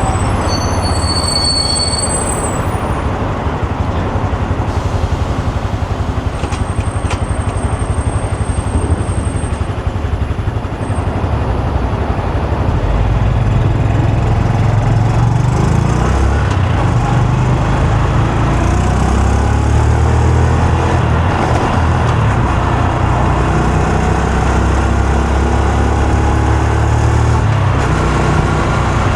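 Honda Super Cub C125's single-cylinder four-stroke engine and exhaust while riding in traffic. The engine gets louder about twelve seconds in, then its note rises and falls as it pulls away and changes speed.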